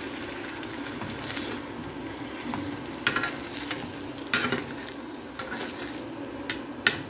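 Flour-coated chicken breast mini fillets sizzling in hot oil in a non-stick frying pan, with a few sharp clicks of metal tongs against the pan as the pieces are turned over.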